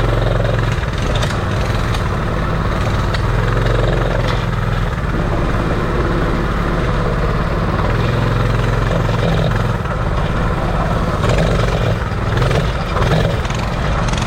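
Coleman CT200U minibike's small single-cylinder engine running steadily, its note shifting a few times as the throttle changes.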